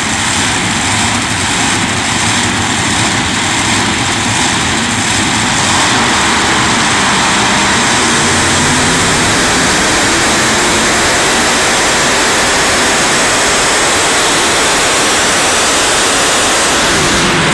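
Competition pulling tractor's engine running at full power during a pull, a loud, dense, unbroken noise that grows louder about six seconds in and then holds steady.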